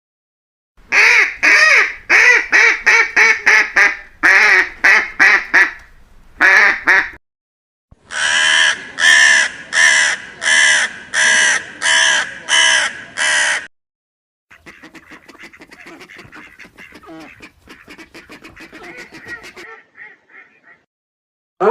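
Farm bird calling loudly in fast runs of short calls, about three or four a second, then a steadier series of evenly spaced calls about one and a half a second apart. Near the end comes a much fainter, fast chattering.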